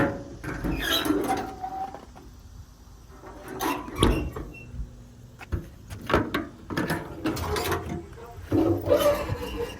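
A series of mechanical clicks, knocks and rattles in several separate bursts with quieter gaps between.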